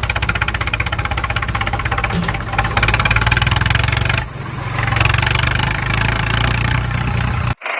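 Engine running with a fast, even pulsing. It dips briefly about four seconds in, picks up again, and cuts off abruptly near the end.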